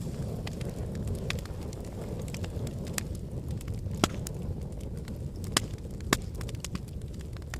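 Wood fire in a fireplace burning with a steady low rumble, crackling and popping irregularly, with a few sharper pops about four, five and a half and six seconds in.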